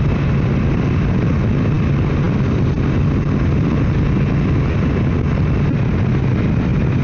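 Motorcycle engine running at a steady cruising speed, a constant low hum under steady wind and road rush.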